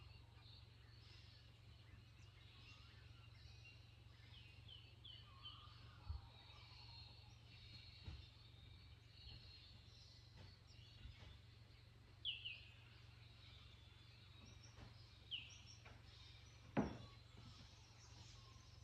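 Faint bird calls: scattered short, quick chirps, several a few seconds apart, over a faint steady low hum. There are a few soft clicks, the sharpest one shortly before the end.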